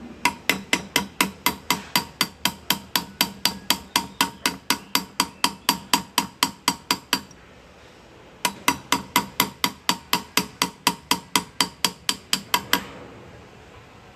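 Small hammer tapping a hand graver to cut metal in hand engraving. The quick, even taps come about five a second and stop for about a second partway through before resuming.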